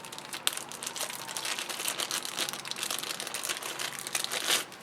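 Plastic toy packaging crinkling as it is handled, a dense crackle that grows loudest near the end.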